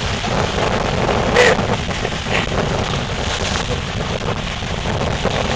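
Strong wind rushing over the microphone with heavy low rumble, over the wash of storm surf on the beach.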